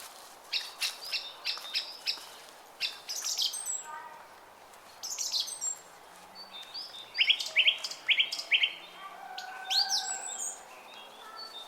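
Several small songbirds chirping and singing over one another, in quick runs of short repeated notes and sharp falling whistles, over a faint steady hiss of a running brook.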